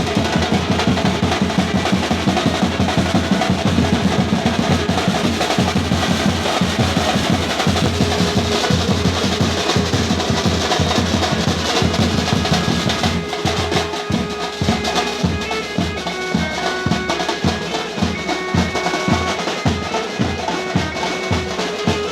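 Drumming from a street procession band, dense and rolling with heavy bass strokes, then settling into a steady beat as held instrument notes join in about halfway through.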